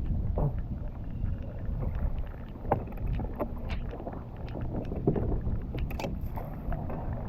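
Steady low rumble of a fishing boat on the water, with scattered light clicks and knocks.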